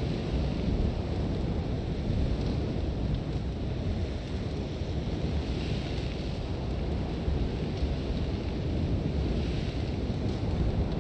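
Sandstorm wind blowing hard: a deep, constant rumble with a hiss of blown sand that swells in gusts, about halfway through and again near the end.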